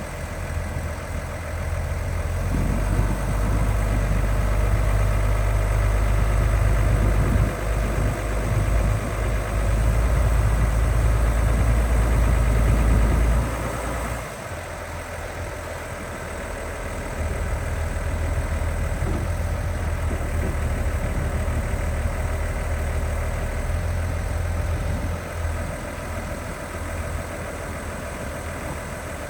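Case IH Maxxum 140 tractor's six-cylinder diesel engine running. It is louder for the first half, drops back sharply about halfway through, then rises a little and eases off again near the end.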